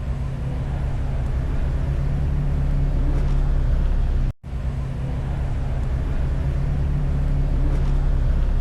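Engine idling steadily with a low, even hum, broken by a sudden short dropout about halfway through.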